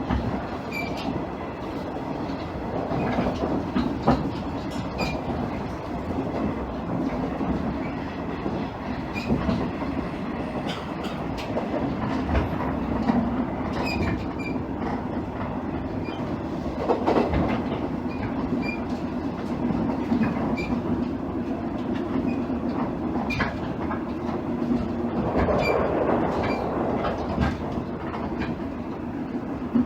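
Cabin sound of a JR East KiHa 110-series diesel railcar under way: a steady drone from the underfloor diesel engine and running gear. Occasional clicks and knocks come from the wheels on the track, and the noise swells briefly a couple of times.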